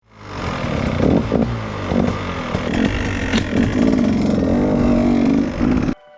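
Dirt bike engine running and revving, the pitch shifting up and down; the sound fades in at the start and cuts off suddenly near the end.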